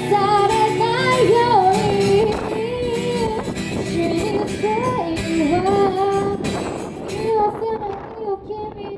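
A woman singing a song live over backing music with a crisp percussion beat, holding long wavering notes. The accompaniment drops away about six and a half seconds in and the voice fades out near the end.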